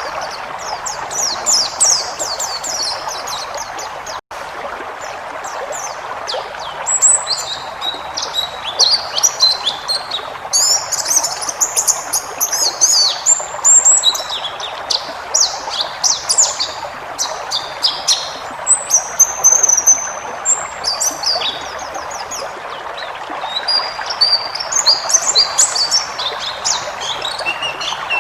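White-eye (pleci) singing a fast, continuous twittering song of quick high chirps and trills, over a steady background hiss. The sound cuts out briefly about four seconds in.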